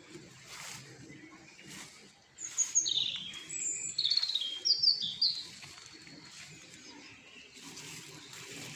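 Songbird chirping: a few quick phrases of high, falling notes, mostly between about two and five and a half seconds in, over a steady low background noise.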